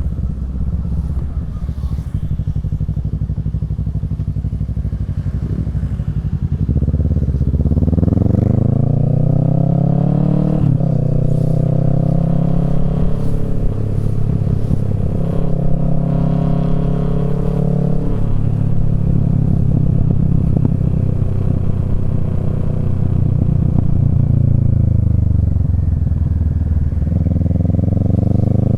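Kawasaki Z650's parallel-twin engine through a Yoshimura Alpha exhaust while riding. It runs low and steady at first, revs up from about seven seconds in with a short break near ten seconds, holds a steady note, falls away past the middle, then picks up again near the end.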